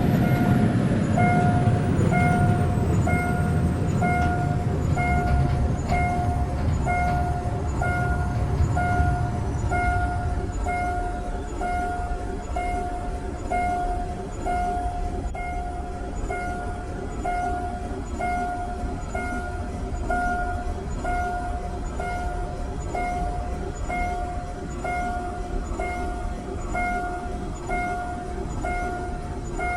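Railway level-crossing warning bell chiming steadily about once a second, while the rumble of a passing train fades away over the first ten seconds.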